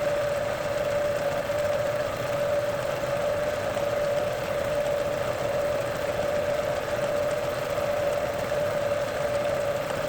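Metal lathe running at a steady speed, a constant mid-pitched whine over an even mechanical hum, while a centering drill is fed into a 416 stainless steel slug.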